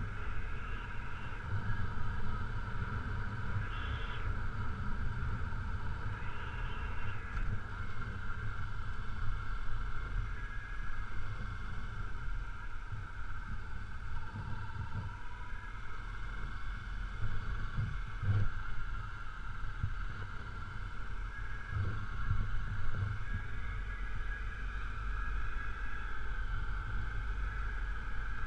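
Honda CRF250L's single-cylinder four-stroke engine running steadily while the motorcycle rides a gravel forest road, with low wind rumble and bumps from the rough surface.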